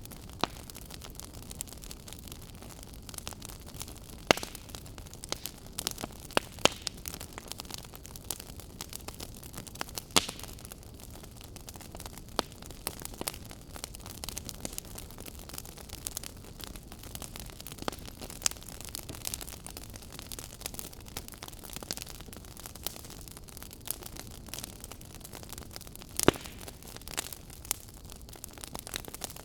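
Fire crackling steadily: a soft hiss with irregular sharp snaps and pops of burning wood, a few much louder pops among them.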